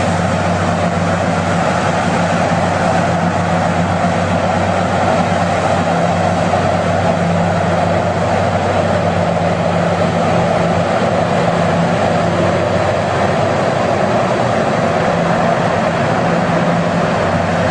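Heavy machinery engine running steadily: a constant low drone under an even, noisy hum.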